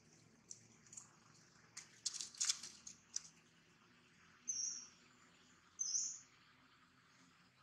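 Faint outdoor scene with two short, high bird chirps about a second and a half apart. They come after a brief burst of crackling clicks.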